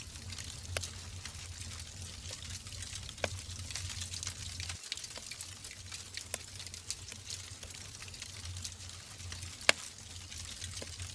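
Wood fire burning in a fireplace: a steady hiss and low rumble of the flames with scattered crackles and pops from the logs, one pop near the end louder than the rest.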